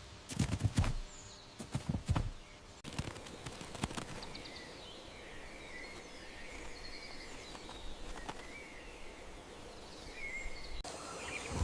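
Woodland ambience: small birds chirping now and then over a steady background hiss. It is preceded by a few sharp knocks in the first three seconds.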